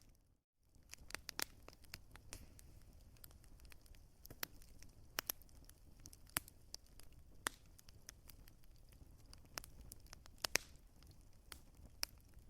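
Wood fire crackling, with sharp pops at irregular intervals over a low, steady rumble. The sound drops out completely for about half a second just after the start.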